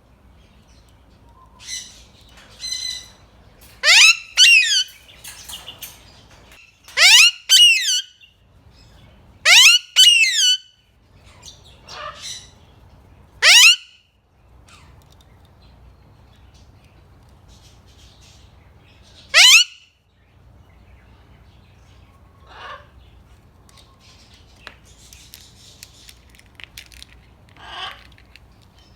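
Pet parrot screeching: a series of loud, sharp calls, each sweeping steeply upward in pitch, several in quick pairs, with quieter calls between them and fewer toward the end.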